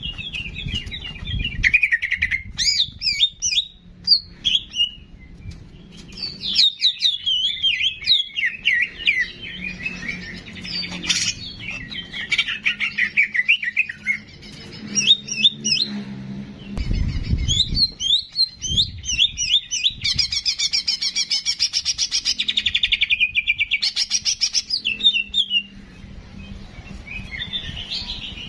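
Songbird singing in rapid, varied bursts of high chirps and twitters separated by short pauses, with a fast rattling trill about three quarters of the way through. A low hum runs underneath, with a brief low rumble a little past the middle.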